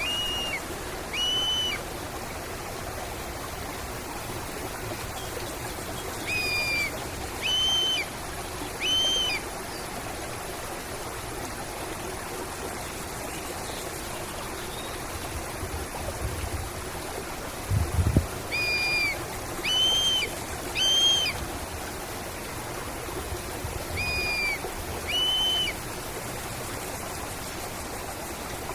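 A stream running steadily, with a bird calling over it in clear whistled notes, each about half a second long, in groups of two or three. There is a brief low thud about two-thirds of the way through.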